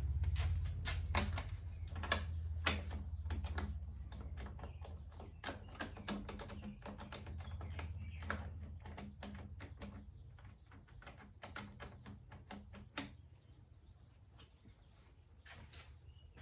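Irregular clicks and taps of a socket wrench and hand tools against metal, working on a motorcycle front fork, over a low hum that fades out about 13 seconds in.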